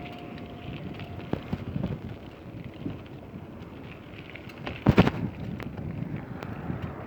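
Wind buffeting the microphone with road rumble while riding a bicycle, with a few small knocks and one loud thump about five seconds in.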